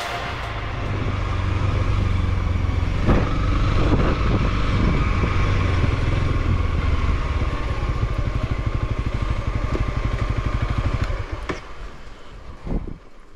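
Honda CRF300L's single-cylinder four-stroke engine running steadily under way, a fast even firing pulse. Near the end it drops away to a much lower, quieter running, with a few short knocks along the way.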